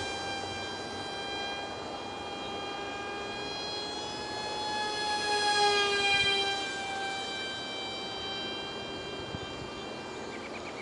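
Ultra micro RC foam jet's 8 mm motor and direct-drive propeller whining in flight. The whine swells louder about halfway through, its pitch shifting slightly up and back down.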